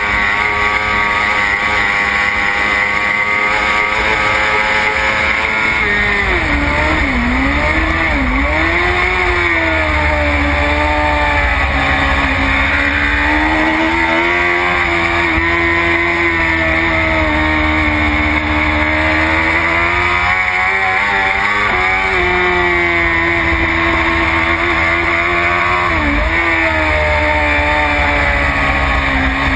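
BMW S1000RR race bike's inline-four engine at high revs with heavy wind rush, heard from onboard. The pitch holds high at first, falls in quick steps about six to eight seconds in as the rider changes down through the gears, then climbs again, with shorter dips later on.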